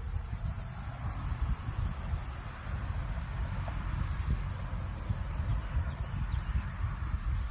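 Steady high-pitched trill of crickets, with an uneven low rumble underneath.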